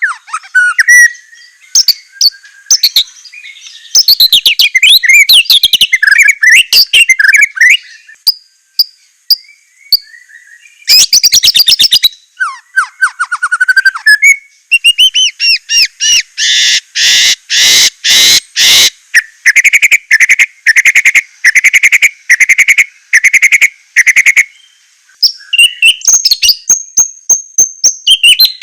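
White-rumped shama (murai batu) singing a long, varied song of whistled phrases and quick chattering runs, with a long series of loud repeated notes through the middle.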